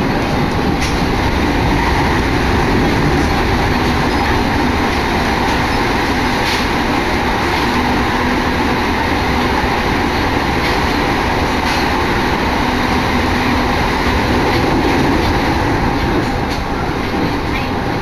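Steady running noise of a moving train heard inside the carriage: wheels on rail and a dense rumble with a few faint clicks. The train runs through a tunnel, and the noise drops a little near the end as it comes out into the open.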